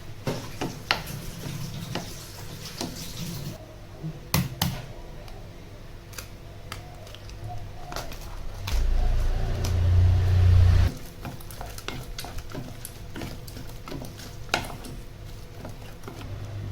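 Household handling sounds: scattered light clicks and knocks of things being handled, with a low rumble for about two seconds in the middle.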